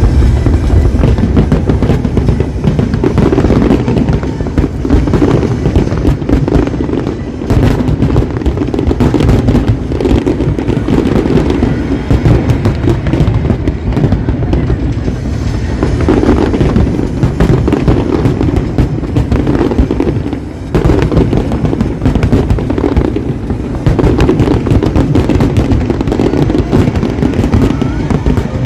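Aerial fireworks bursting in a dense, continuous barrage of booms and crackles, loud throughout, with two brief lulls about seven and twenty-one seconds in.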